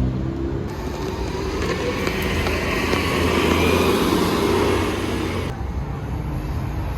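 Road vehicle noise that swells as a vehicle passes about three to four seconds in. The sound changes abruptly near the start and again past five seconds.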